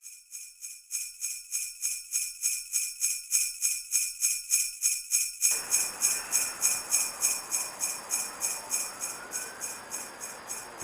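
Sleigh bells shaken in a steady rhythm, about three shakes a second, fading slightly near the end. From about halfway through, a steady hiss of background noise comes up beneath them.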